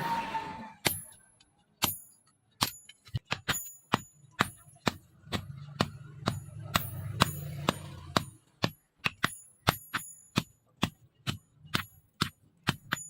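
Hammer striking leaf-spring steel on an anvil: a long run of irregular blows, about two to three a second, each with a bright metallic ring. A low hum rises under the blows for a few seconds around the middle.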